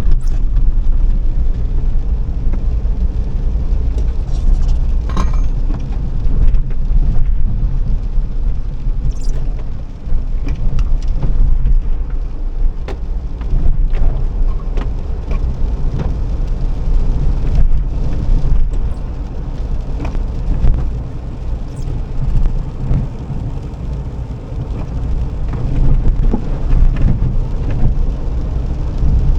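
A car being driven: a steady low rumble of engine and road noise, with scattered small clicks and knocks.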